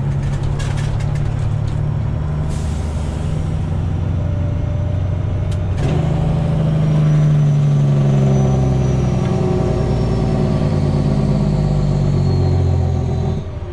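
Freightliner Classic XL semi's Detroit Diesel Series 60 engine running while driving, heard from the cab, with a few light clicks in the first two seconds. About six seconds in, the engine note steps up and rises as it pulls, then holds and eases slightly near the end.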